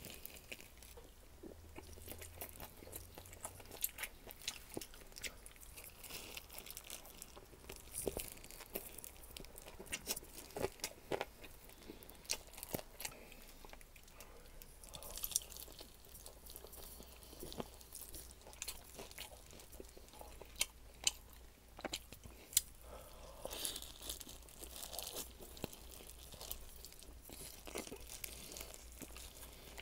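Crunching and chewing of crispy garlic chicken (Goobne Namhae Garlic Crispy) as pieces are bitten, with many sharp, irregular crackles of the crisp crust.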